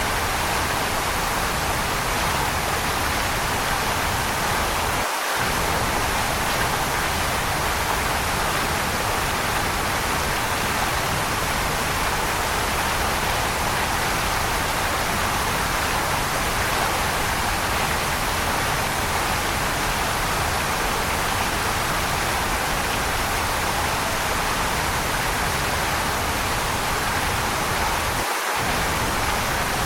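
Waterfall: steady rushing water, an even hiss-like roar that stays constant throughout.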